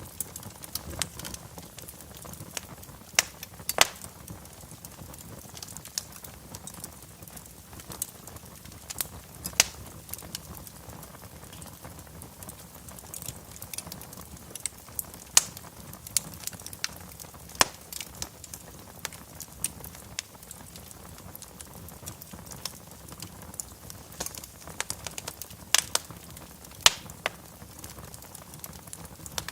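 Wood fire crackling in a fireplace: a low steady hiss with sharp, irregular pops and snaps, a few much louder than the rest.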